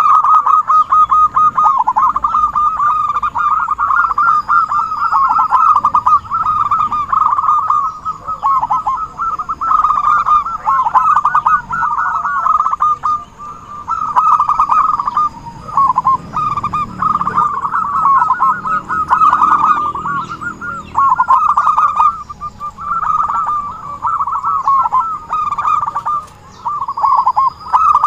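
Zebra doves (perkutut) cooing in dense, rapid staccato trills, near-continuous with brief gaps, used as a lure recording to call in other doves.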